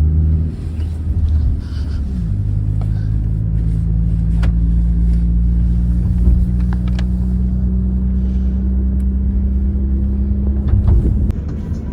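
Passenger train running just after pulling away: a steady low rumble and hum, with a few sharp clicks.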